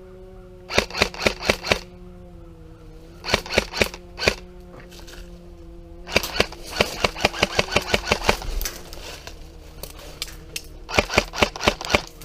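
Airsoft guns firing rapid bursts of BBs, about six or seven shots a second, in four volleys with the longest in the middle, over a steady low hum.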